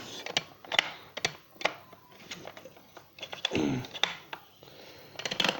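Hard plastic parts of a Gerer8 Power MAX 2000W vacuum cleaner being handled: a run of irregular sharp clicks and light knocks as the body and its release button are worked.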